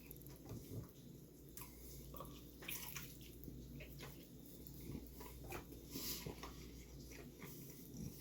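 A person chewing and lip-smacking on fried chicken legs coated in spicy sauce, with faint wet smacks and clicks every so often.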